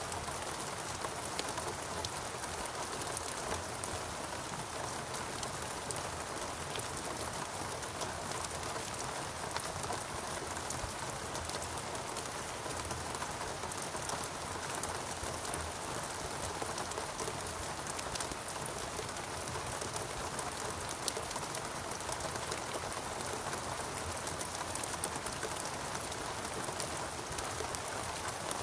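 Steady rainfall in a rainforest: an even hiss of rain with many small drops pattering and a few sharper individual drop hits scattered through.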